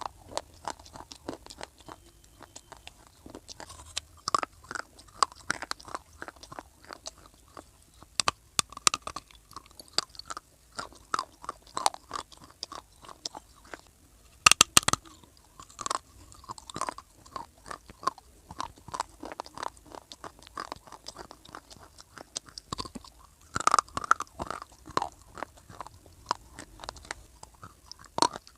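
Close-miked crunching and chewing of hard, dry baked clay (mitti): irregular sharp crackles as pieces are bitten and ground between the teeth, with a loud bite about halfway through.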